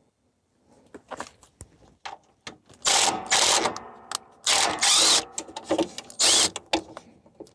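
Power driver with an 8mm socket spinning out a lawn tractor's side-panel bolt in three short bursts, with small clicks and knocks of the tool and panel between them.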